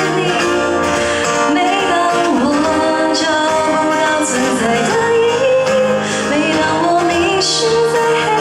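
Live wind band music: a bending, gliding melody line over sustained low notes, playing continuously.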